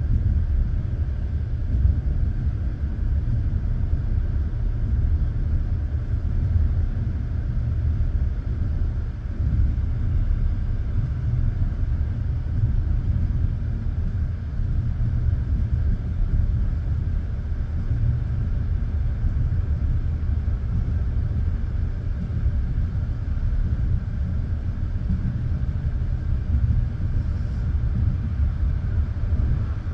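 Passenger train running along the line, heard from inside the carriage: a steady low rumble of the wheels on the rails, with no sudden events.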